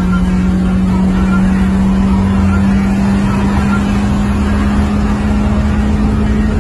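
Car engine heard from inside the cabin, running at high revs under hard acceleration. Its drone climbs slowly in pitch over a low road rumble.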